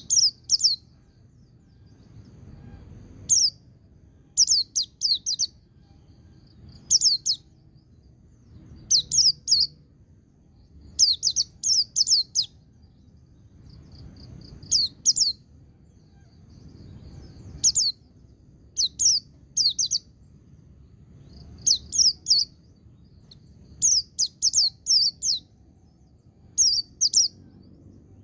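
Pleci (white-eye) singing in the ngalas style: short bursts of three to five quick, high chirps, repeated every second or two, with faint twittering between the bursts.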